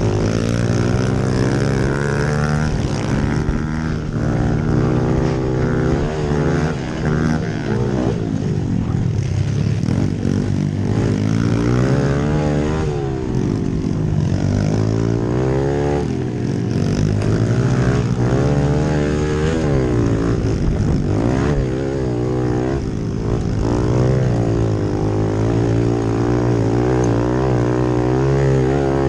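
Pit bike engines running hard on a dirt track, the pitch rising and falling over and over as the throttle is worked and let off through the turns, over a steadier engine drone.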